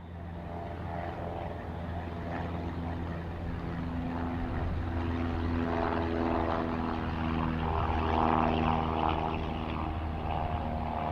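Propeller aircraft engine droning steadily, growing gradually louder to a peak about eight seconds in, with its pitch shifting slightly as it passes.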